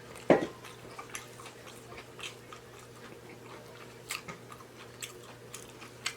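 Close-miked chewing of a loaded taco, with soft wet mouth clicks and smacks scattered throughout, and one short louder low thump about a third of a second in.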